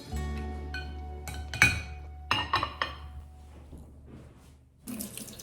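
Glass dishes clinking, with several sharp ringing clinks between about one and a half and three seconds in, over soft background music. A kitchen tap starts running near the end.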